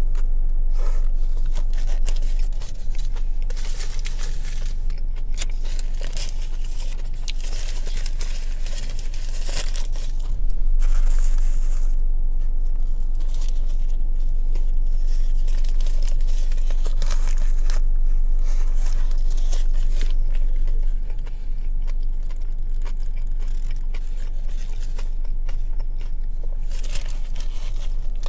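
Close-miked eating of a meatball sub: bites and chewing, with the sandwich's paper wrapper crinkling and rustling in repeated stretches, over a steady low hum.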